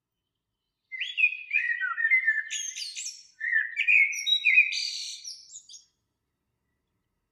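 A songbird singing two phrases of quick, varied chirps and whistled glides, each about two and a half seconds long, one right after the other.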